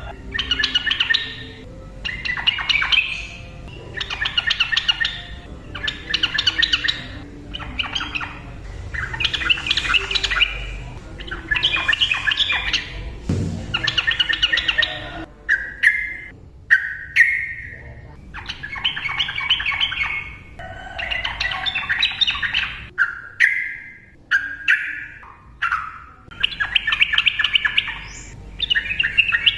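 Sooty-headed bulbul (trucukan) singing a lively, rapid chattering song in bursts of about a second with short gaps between them. About halfway through it changes to shorter, clearer whistled phrases.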